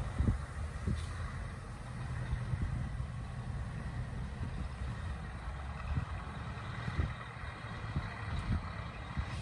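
Scania 450 truck's diesel engine idling steadily, with short low thumps now and then.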